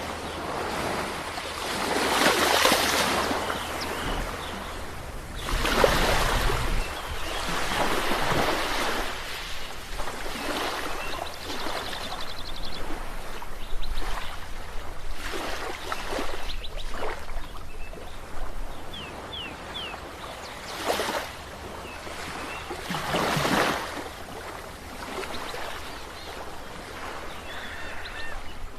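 Sea waves breaking and washing up the shore, swelling and falling every few seconds with several stronger surges, over a faint steady low hum.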